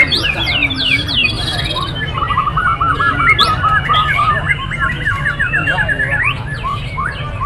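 Many caged songbirds calling and singing at once, a dense chorus of fast repeated trills, chirps and sweeping whistles over a steady low rumble of background noise.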